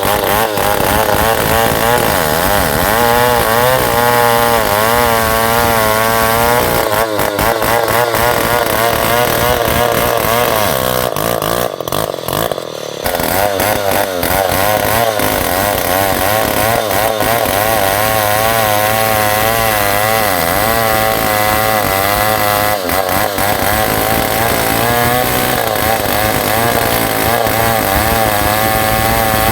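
New West 707 two-stroke chainsaw ripping ulin ironwood lengthwise, running at high revs under load with its pitch wavering as the chain bites. About halfway through, the engine eases off for a second or two, then picks back up and cuts on.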